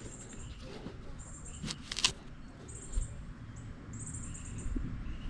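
Sur Ron electric dirt bike being ridden on a trail: a rough low rumble of tyres and wind, with two sharp knocks about two seconds in. Short high-pitched tones come and go.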